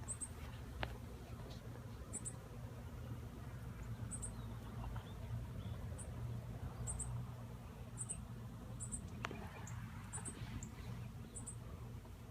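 Honeybee swarm buzzing as a steady low hum, with short high chirps repeating every second or two.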